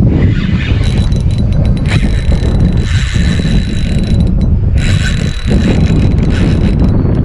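Fishing reel's drag buzzing as a big fish pulls line, in two stretches with a short break in the middle. Wind buffets the microphone underneath.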